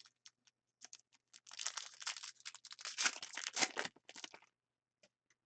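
A trading-card pack's wrapper being torn open and crinkled for a few seconds, with a few light clicks of cards being handled before and after.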